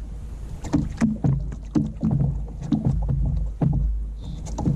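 Water slapping and knocking against a kayak hull: a string of irregular short knocks, about two a second, over a low rumble.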